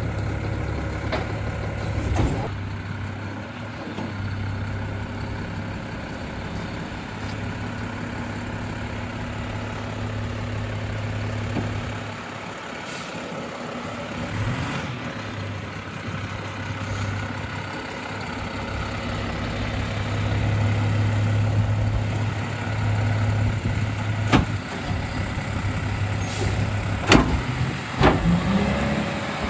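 Garbage truck's diesel engine running steadily, growing louder for a few seconds past the middle, with a short air-brake hiss and a few sharp metal clacks.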